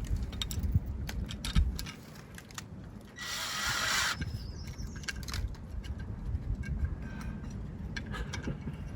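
Clicks and knocks of tools and fixings being handled while fitting a house-number plaque to a masonry wall, with a short noisy burst lasting about a second, about three seconds in.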